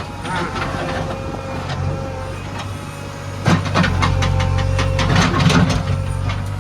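Diesel engine running steadily, then working harder and louder from about three and a half seconds in, with a run of clanks and rattles over it.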